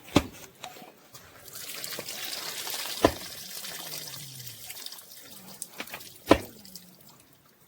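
Water pouring and splashing for a few seconds, with three sharp knocks, the last the loudest.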